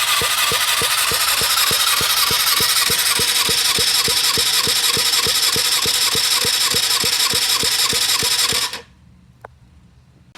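Suzuki GSX-R250 inline-four being cranked on its electric starter without firing: a steady starter whine with even compression pulses, about three or four a second, for about nine seconds before it stops. The engine is a non-running junk unit.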